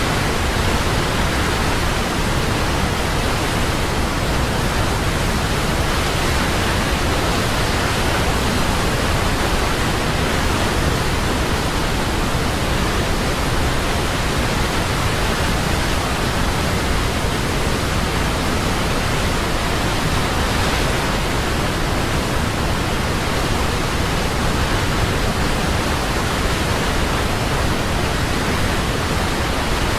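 Large waterfall: a steady, dense rush of falling water.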